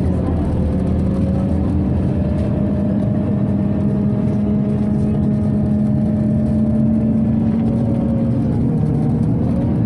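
Scania OmniCity city bus heard from inside while driving: a steady engine and drivetrain hum under a constant rush of ventilation. A whining tone sags and recovers about half a second in and again near the end, as the bus changes speed.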